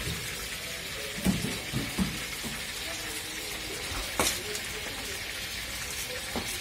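Cashews, raisins and cloves frying with a steady sizzle in a wok, while a metal spatula stirs them and scrapes and knocks against the pan a few times, the sharpest knock about four seconds in.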